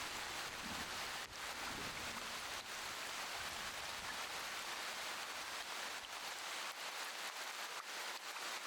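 Steady rain falling, an even hiss, with a low rumble underneath that fades away about two-thirds of the way through.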